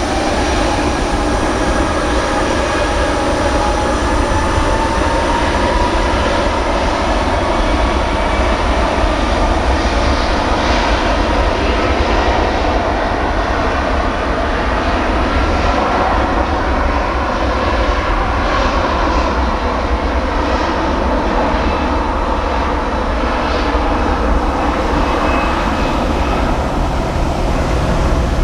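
Jet airliner engines running, a steady loud noise with a faint whine that rises slightly over the first several seconds.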